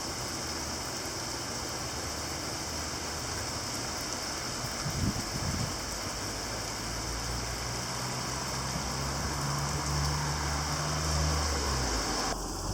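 Heavy rain pouring down in a steady hiss. A low steady hum joins in the second half.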